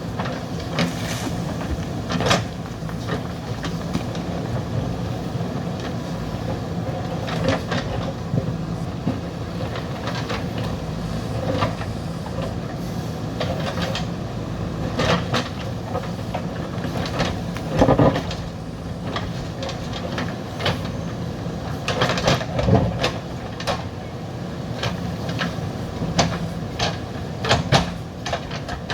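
JCB backhoe loader's diesel engine running steadily while it digs, with repeated sharp clanks and knocks from the bucket working earth and rock, a few of them much heavier than the rest.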